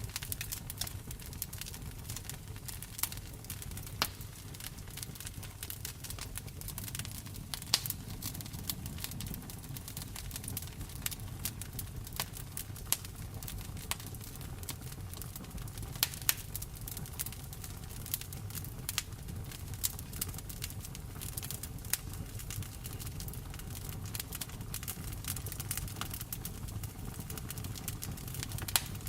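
Wood fire crackling in a fireplace, with frequent irregular sharp pops, over a steady hiss of rain and a low rumble.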